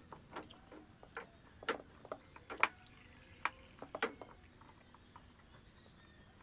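Eating sounds: faint, irregular mouth smacks and clicks from chewing rice and grilled fish eaten by hand, about a dozen between half a second and four seconds in.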